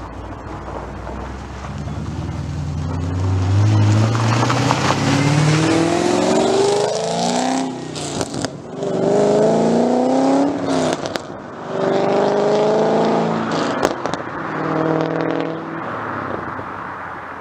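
GTO's V8 with Trick Flow cylinder heads and a Borla exhaust accelerating hard, its pitch climbing through several gears with brief breaks at each upshift, then easing off near the end.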